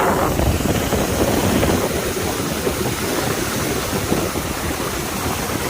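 Tour boat's motor running steadily under way, with wind noise on the microphone and the rush of water.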